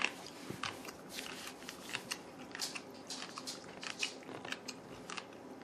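A person chewing a crunchy dried radish snack: a steady run of small, irregular crunches.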